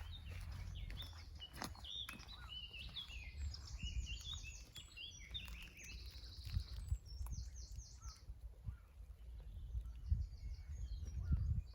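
Wild birds singing, a mix of chirps and quick repeated trills, over a steady low rumble, with a few louder low thumps near the end.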